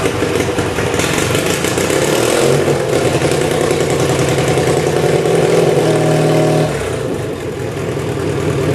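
Kohler KT17 air-cooled twin-cylinder engine of a Simplicity 7117 garden tractor running steadily at raised throttle, just started after sitting a week. About seven seconds in it drops to a slower, quieter speed.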